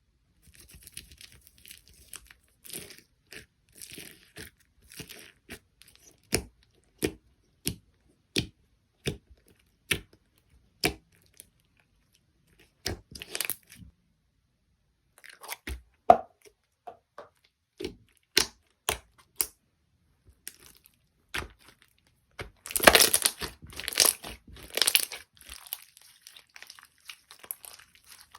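Slime being played with: a run of sharp clicks and pops, about three every two seconds for a stretch, then a loud burst of crinkling and crunching a few seconds before the end.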